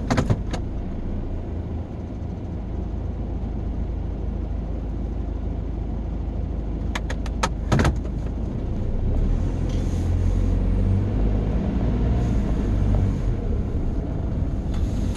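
Road and engine noise inside a moving car's cabin, a steady low rumble that gets a little louder in the second half. A few sharp clicks come just after the start and again about seven seconds in.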